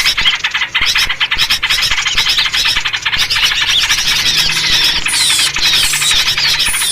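A noisy chorus of small birds chattering and chirping rapidly, with quick downslurred calls over the top; a bird-luring recording of excited birds, in a sooty-headed bulbul (trucuk) version, made to draw in small birds.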